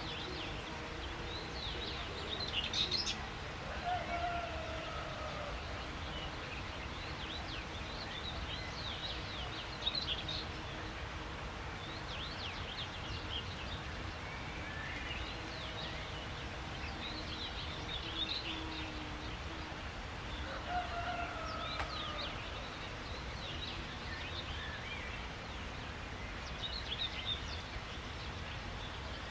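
A chorus of small songbirds chirping and twittering in quick, high bursts, with a lower whistled call sliding slightly in pitch heard twice. Underneath is a steady low background rumble.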